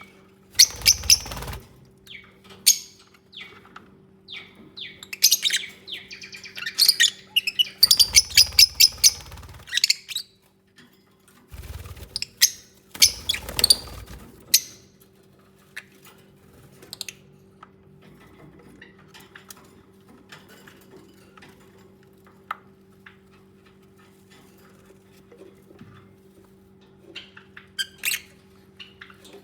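Lovebirds chirping in rapid bursts of sharp, high calls, with low thuds in between, then a quieter stretch of faint scattered clicks before a last short burst of chirps near the end. A steady low hum runs underneath.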